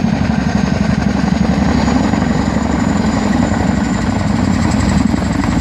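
Boeing CH-47 Chinook tandem-rotor helicopter running, loud, with a steady rapid rotor chop.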